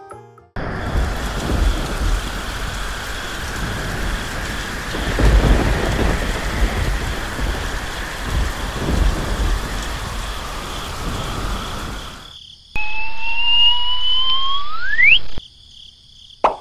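Rain with rolling thunder, switching on suddenly and cutting off about twelve seconds later, with two deep swells of thunder partway through. Shortly after it ends, a whistle tone rises in pitch for a couple of seconds and sweeps up sharply at the end.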